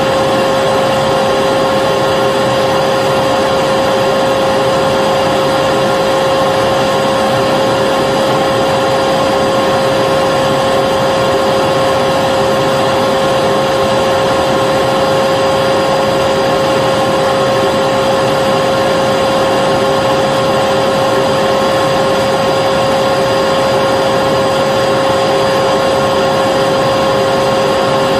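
Vacuum cleaner running continuously at a steady speed: an even rushing of air with a constant motor whine, unchanging.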